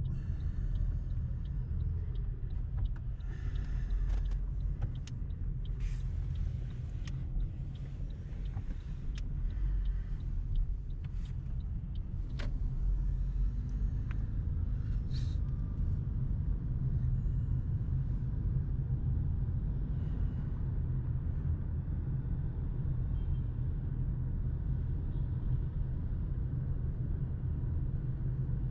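Car engine running with a steady low rumble, with a few light clicks and knocks in the first half.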